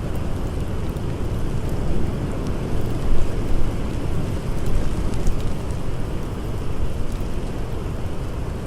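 Blizzard wind blowing in a steady, deep rush, with faint scattered crackles of a campfire.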